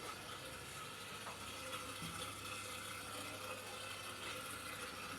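Water running in a washing machine, steady throughout, with a faint low hum under it.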